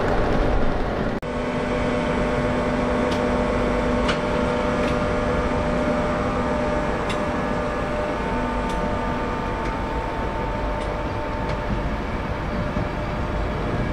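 Train at a station: a steady hum of several held tones, with a scattering of faint clicks and a brief dropout about a second in.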